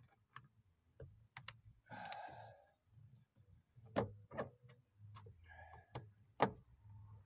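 Scattered sharp clicks and light knocks, with a couple of short scraping rasps, from handling screws, a screwdriver and plastic door trim while taking apart a car's door panel.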